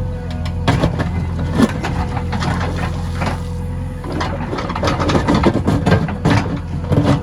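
JCB 3DX backhoe loader running steadily under a continuous low engine hum, with frequent short knocks and clatters throughout.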